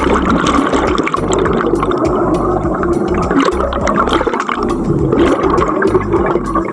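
Water bubbling and gurgling as heard underwater: scuba divers' exhaled bubbles rising from their regulators, with a steady low rumble and constant crackle.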